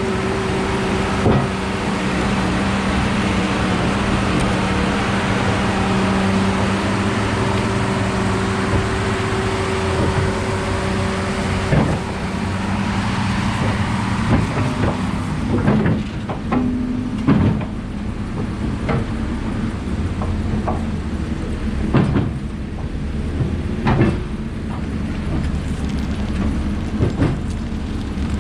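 Heavy logging machine's diesel engine running steadily. From about halfway through, a string of sharp cracks and knocks comes over it.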